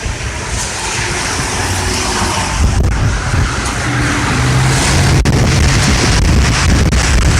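Unexplained loud, low droning noise with a steady hiss over it, the low rumble swelling about two and a half seconds in. It is likened to a sound system being switched on for testing.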